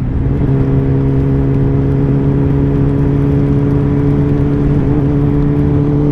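Kawasaki ZX-10R superbike's inline-four engine running at a steady pitch while cruising, over a steady rushing noise.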